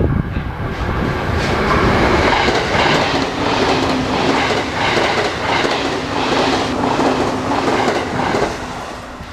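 Train passing close along a station platform, its wheels clattering over the rail joints in a steady rhythm of about two beats a second, with a steady low tone under the rumble. The sound builds over the first couple of seconds and fades near the end.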